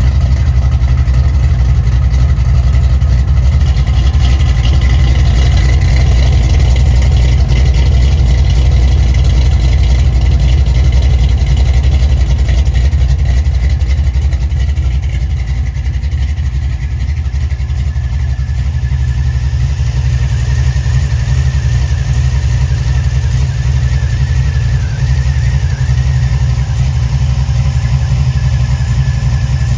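The iron-block Gen 3 5.3 L LS V8, with a stage 2 cam, in an LS-swapped 1997 Chevy S10 drag truck, running steadily at idle with a strong, deep engine note.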